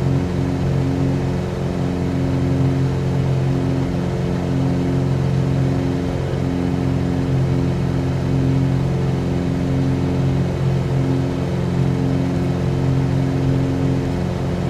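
Cessna 182Q's six-cylinder piston engine and propeller droning steadily in cruise, heard from inside the cabin. The pitch holds level throughout.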